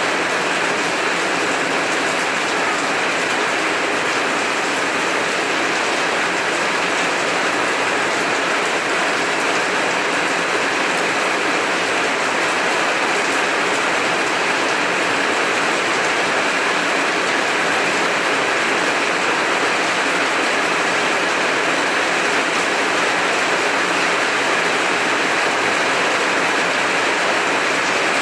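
Heavy rain falling steadily, a dense even hiss with no pauses or thunder claps.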